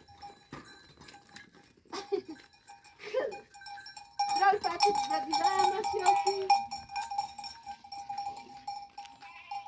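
Farm animals bleating in short calls, with a steady ringing tone sounding under them from about four seconds in.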